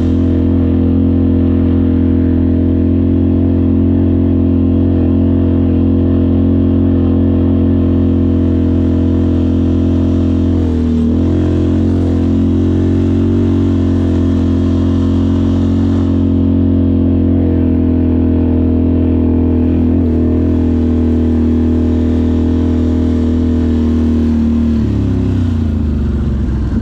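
An off-road vehicle engine running at a steady pace under throttle. The throttle dips briefly about eleven and twenty seconds in, then the revs fall away near the end as it slows toward idle.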